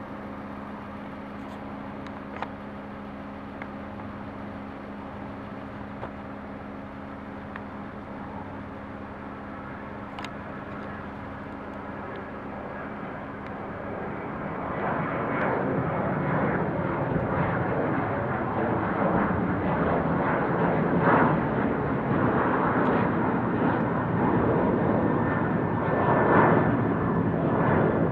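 Jet airliner departing: a steady engine hum for the first half, then the engine noise builds from about halfway into a loud, rough rumble that holds to the end.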